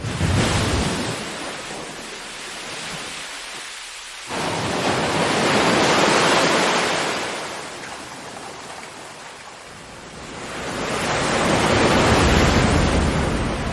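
Ocean waves breaking and washing in slow surges. One surge hits suddenly at the start, another breaks sharply about four seconds in and swells before fading, and a third builds gradually near the end.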